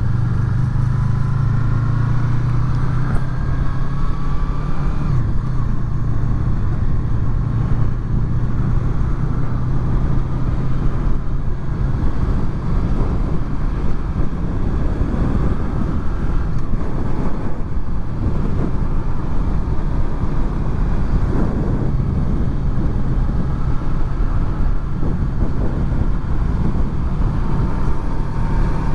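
Honda VFR800's V4 engine running steadily while the motorcycle is ridden, with wind and road rush on the microphones. A low engine hum is strongest in the first ten seconds or so, with a faint whine drifting up and down in pitch above it.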